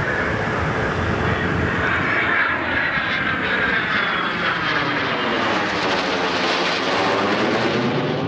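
F-22 Raptor and P-51 Mustang flying past together in formation. Their engine noise sweeps in pitch as they go by, and the top end fades near the end.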